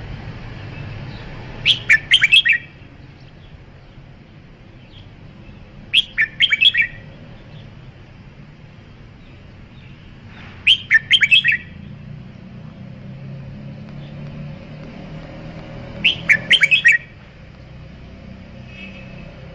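Red-whiskered bulbul singing: four short, loud phrases of quick whistled notes, each about a second long and about four seconds apart, over a low steady background hum.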